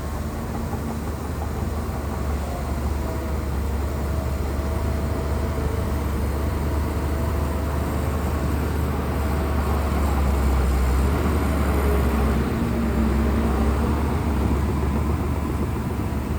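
Shantui bulldozer's diesel engine working under load, a steady heavy rumble with a faint whine, growing a little louder about ten seconds in and easing near the end.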